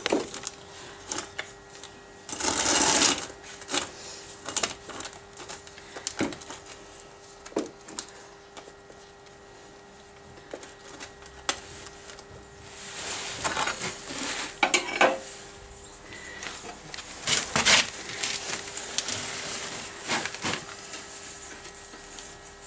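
Metal hand tools and parts clinking and knocking during work on a car's front suspension, with scattered sharp clicks and a few short rasping bursts, over a faint steady hum.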